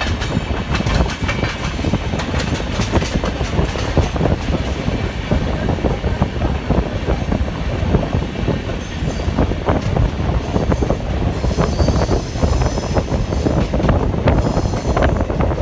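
Indian express passenger train running at speed: a steady rumble of wheels on the track, dense with rapid clicks as the wheels pass over rail joints.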